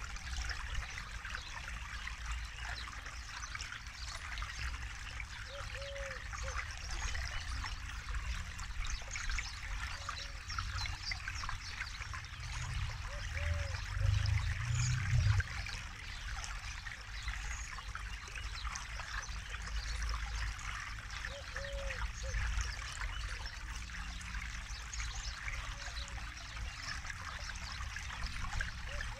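Forest river flowing and babbling over its bed in a steady rush of water. A low rumble swells briefly about halfway through.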